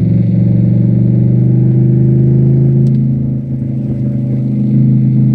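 Cadillac STS-V's supercharged 4.4-litre V8 running steadily at a held engine speed. There is a brief dip in loudness about three and a half seconds in, then it settles again.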